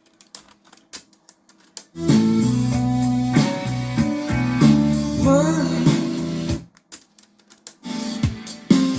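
Pop music with guitar and singing played through a Honda car stereo and its speakers. Two short breaks, at the start and again about two-thirds through, leave only clicking percussion before the full band comes back.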